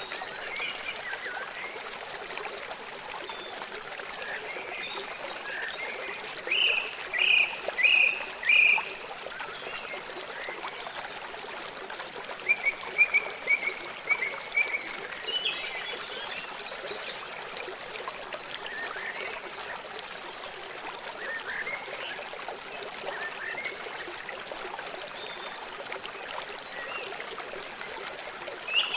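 Forest ambience: a stream running steadily, with short chirping animal calls over it. About seven seconds in comes a run of four loud notes, and from about twelve to fifteen seconds a run of quicker notes, with scattered single chirps between.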